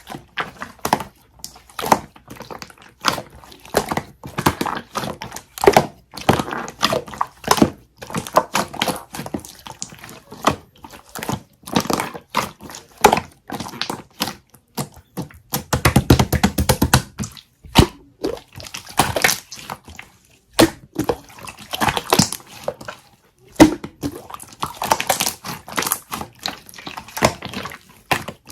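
Jelly slime being squished and pressed by hand, making dense, irregular clicks and pops, with a louder squelching stretch about halfway through.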